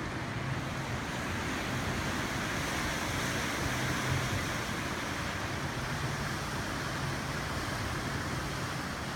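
Strong gusty wind of 50-plus miles per hour blowing steadily, a continuous rushing noise with a low rumble of wind buffeting the microphone.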